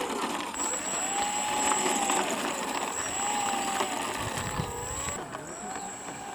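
Radio-controlled model Air Tractor AT-502 flying, its motor and propeller giving a steady whine that rises and falls in pitch over and over as the plane passes and turns.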